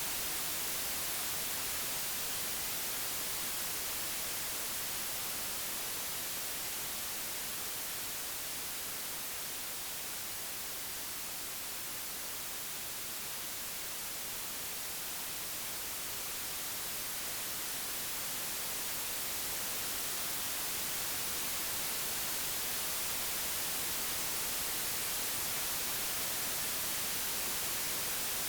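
Computer-generated pure white noise: an even, steady hiss with no tones or events, growing slightly softer around the middle and swelling back.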